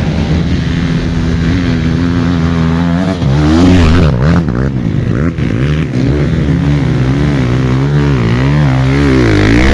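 Off-road motorcycle engine running hard: steady for the first few seconds, then its pitch rising and falling over and over with the throttle, with a quick rev up near the end.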